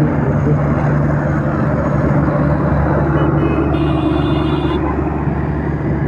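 Motorcycle engine running steadily in slow road traffic, with general traffic noise around it. A high-pitched vehicle horn sounds once for about a second, nearly four seconds in.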